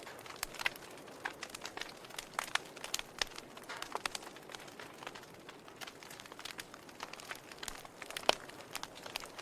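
Fire crackling in a fireplace: a faint steady hiss with frequent irregular pops and snaps, one louder snap about eight seconds in.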